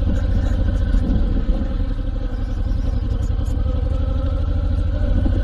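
Honda VTX1800C's big V-twin engine running steadily at low revs with an even throb as the cruiser creeps over slippery ground, with a few faint light clicks about three seconds in.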